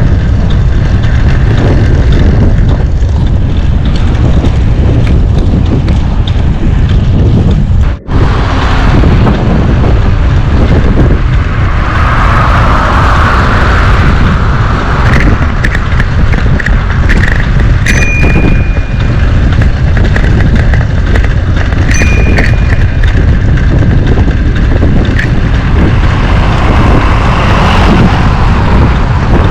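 Wind buffeting the microphone of a camera carried on a moving bicycle, a loud, steady low rumble that cuts out for an instant about eight seconds in. Two short high-pitched tones sound in the second half.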